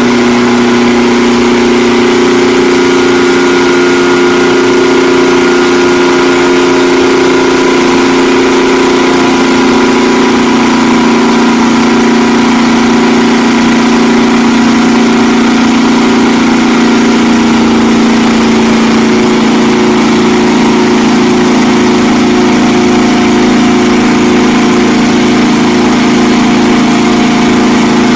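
A car engine running at steady revs: a loud, even drone that neither rises nor falls.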